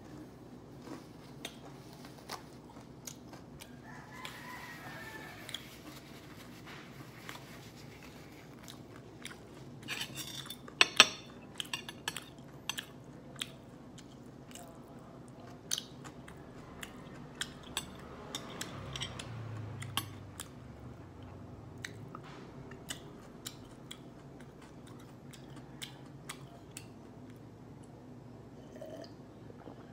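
Close-up eating of sauced fried chicken: chewing and crunching, with sharp clicks of metal chopsticks against a ceramic plate. The loudest cluster of crunches and clicks comes about ten to eleven seconds in.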